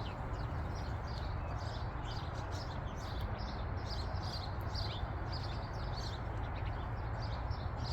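Small songbirds chirping in quick, overlapping short calls, over a steady low background rumble.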